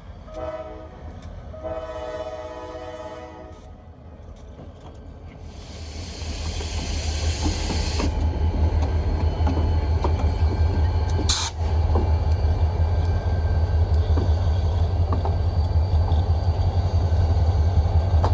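Diesel freight locomotive sounding its air horn, a short blast and then a longer one. The engine's low rumble then grows loud and holds steady as the train passes close by.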